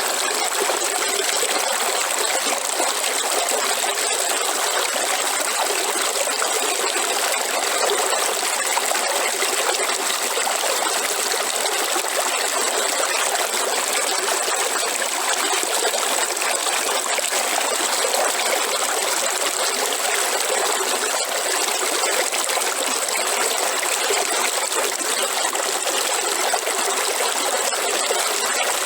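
Waterfall: a steady rush of falling water that does not change in level.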